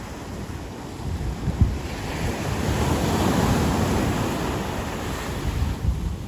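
Ocean surf: a wave breaks and washes up the beach, swelling about a second in and fading away near the end.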